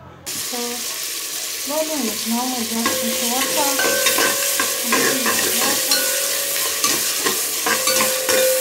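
Chopped tomatoes and onions sizzling in oil in an aluminium pot, stirred and scraped with a metal spoon. The sizzle starts suddenly just after the start and keeps up steadily.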